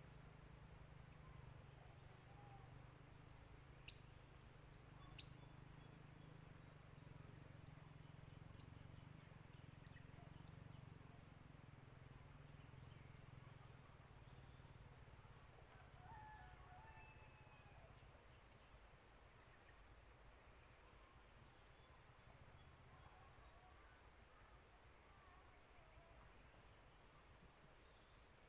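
A steady, high-pitched cricket trill that keeps going without a break, with a few faint ticks and some soft chirps around the middle.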